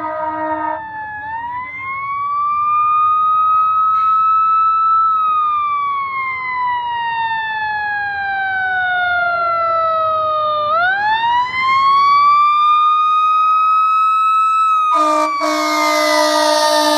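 Fire truck siren wailing: a slow rise, a long falling glide, then a second rise. A fire truck air horn blows briefly at the start and comes in again, loud, near the end.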